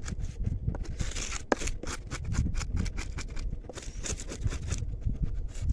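Scales being scraped off a freshly caught fish: quick, irregular scraping strokes, several a second.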